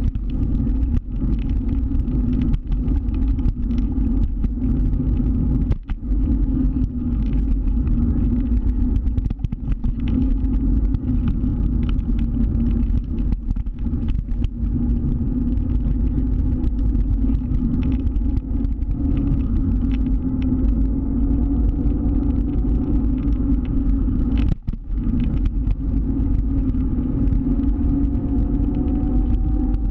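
Motor scooter engine running steadily under way, with steady low noise from the ride underneath. The engine note briefly drops twice, and its pitch rises near the end as the scooter speeds up.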